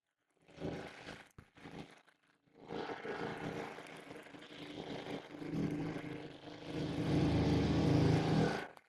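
Brush cutter engine running: two short bursts, then running continuously and getting louder toward the end before stopping abruptly.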